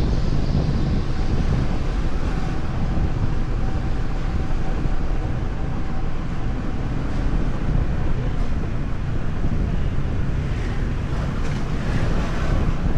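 Wind buffeting the microphone of a rider on a moving motorbike, a steady low rumble of rushing air over road and traffic noise.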